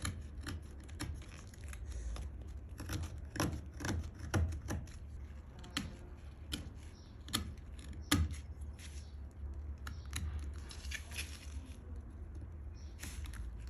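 Hand tools working a small piece of walnut wood: an irregular run of short scrapes and taps, at times several a second, with a brief rasping stretch about two-thirds of the way through.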